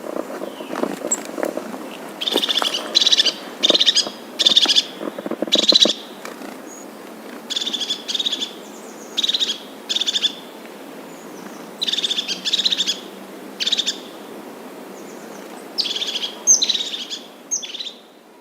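A bird calling: short, rapid, trilled high notes, each under half a second, repeated in runs of three to five with pauses between. A fainter, lower-pitched sound runs underneath during the first six seconds.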